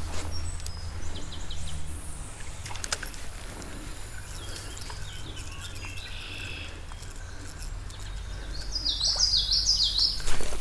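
Songbird calling, with faint chirps early on and a quick run of repeated sweeping chirps near the end, over a low steady rumble.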